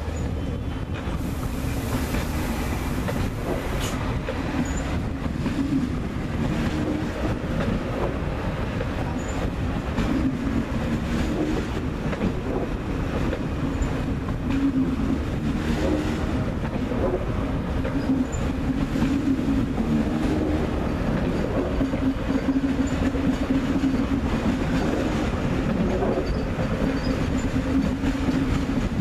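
ICE high-speed electric train rolling slowly past, a steady rumble of wheels on track with clacking over the rail joints and points, and a wavering low hum.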